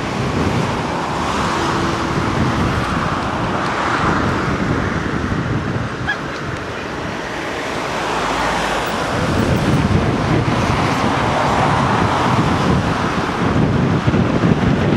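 Wind buffeting the camera's microphone: a loud rushing noise with a low rumble that swells and eases, growing stronger about nine seconds in.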